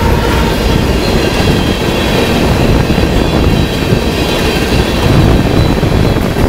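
Freight train's covered hopper cars and boxcars rolling past at close range: a loud, steady rumble and rattle of steel wheels on rail, with a faint high wheel squeal.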